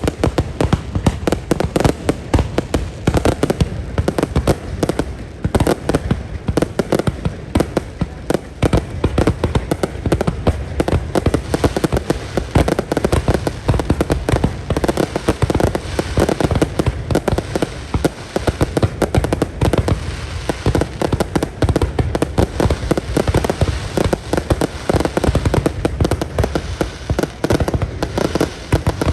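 Aerial fireworks display: a dense, unbroken run of bursting shells, many bangs a second.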